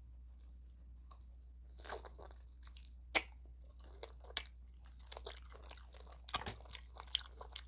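Close-miked chewing and crunching of extra crispy fried chicken, with irregular crackling bites, the sharpest about three seconds in and a cluster of them near the end.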